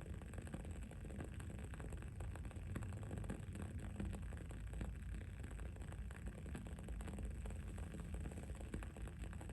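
Wood wick candle burning with a continuous soft crackle of many small pops, over steady low background noise.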